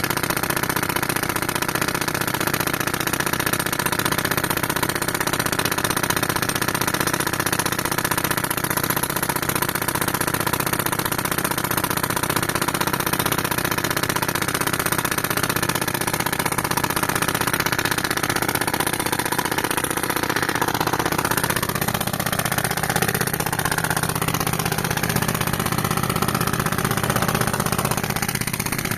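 Tractor engine running steadily under load while it drives an air compressor; its note shifts somewhat in the last third.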